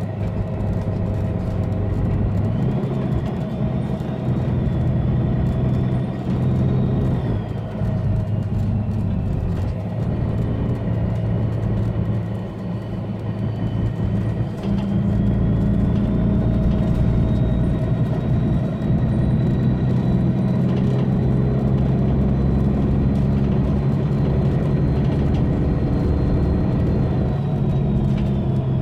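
Mercedes-Benz Citaro bus's OM457hLA straight-six diesel running under load with a loud turbo whistle. The whistle rises to a high steady note about three seconds in and drops away around seven seconds. It rises again about fifteen seconds in, holds for over ten seconds, and falls near the end.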